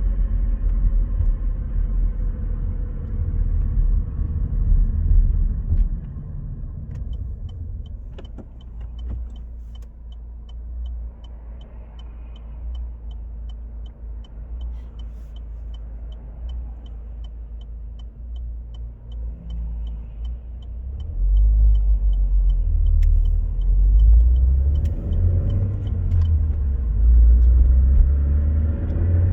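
Road and drivetrain noise inside a moving car fitted with an M32 six-speed gearbox, recorded to show a suspected gearbox noise problem. A heavy low rumble eases off after about six seconds. A quieter stretch follows with a regular ticking about twice a second, then the rumble builds loudly again near the end.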